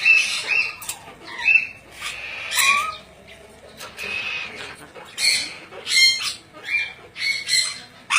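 Ornate lorikeet squawking: about ten short, harsh, high-pitched calls in an irregular series, some with a quick slide in pitch.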